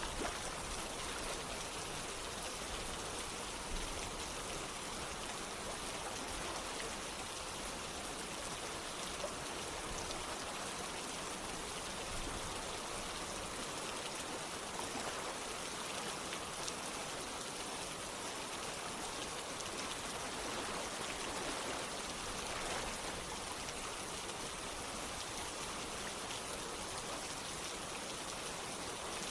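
Steady rain mixed with running water: an even hiss with scattered drop ticks.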